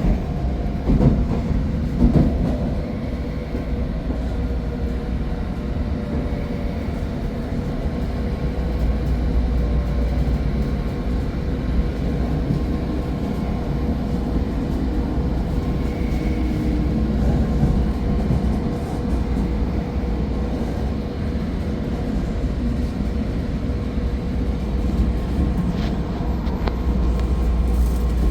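Shinkansen train running with a steady low rumble and a faint steady hum, with a few knocks in the first couple of seconds.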